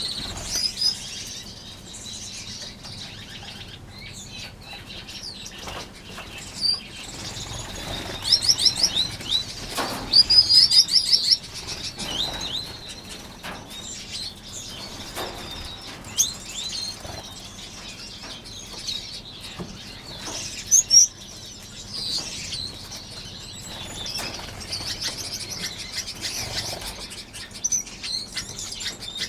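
A flock of small aviary finches chirping and calling, with wings fluttering as birds fly about. About a third of the way through comes a run of fast, high repeated trill notes.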